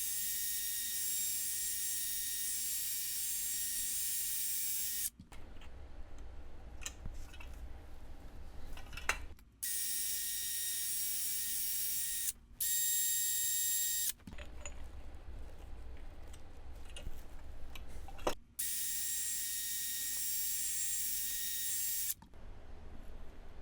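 Power wire wheel brushing rust and grime from a bolt's threads: a steady high whine with bristle hiss, in four stretches that start and stop abruptly, with quieter stretches of faint clicks and scraping between.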